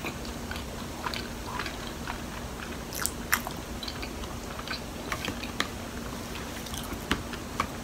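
A person quietly chewing soft Hakka mochi close to the microphone, with scattered small mouth clicks throughout and a few sharper ones about three seconds in.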